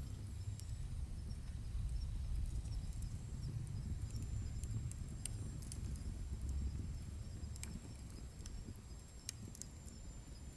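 Wood fire burning in a wood stove: irregular sharp crackles and pops from the burning logs over a low, steady rumble, with a faint high steady tone.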